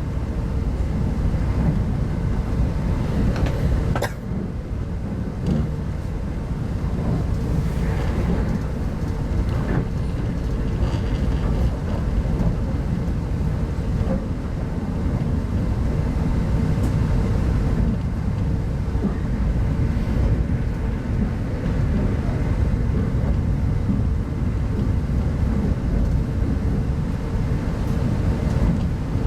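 Steady low rumble of a 25T-type passenger coach running at speed, heard from inside the carriage, with a sharp knock about four seconds in.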